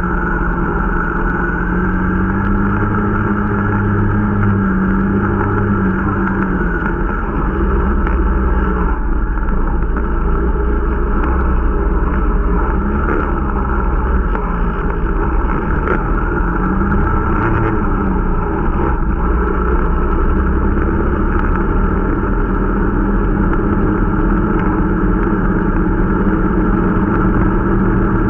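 Irbis Dingo T125 snowmobile's 125 cc single-cylinder four-stroke engine running under way during its running-in, engine speed rising and falling several times.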